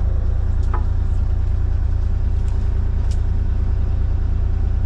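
Excavator engine running steadily at a constant speed, a deep even drone, with a couple of faint clicks over it.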